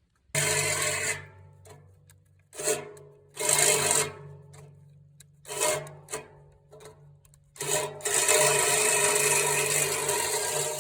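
Electric drill boring through a steel exhaust stack pipe, run in several short bursts and then continuously from about eight seconds in.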